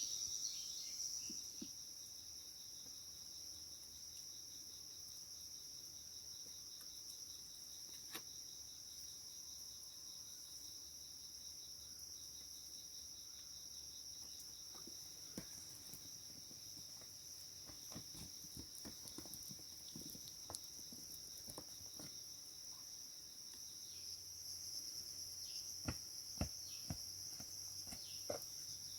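A steady, high-pitched chorus of insects chirring, with scattered light clicks and taps in the second half.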